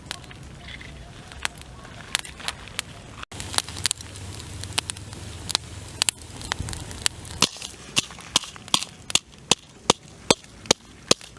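A run of sharp, irregular knocks and clicks, coming faster in the second half.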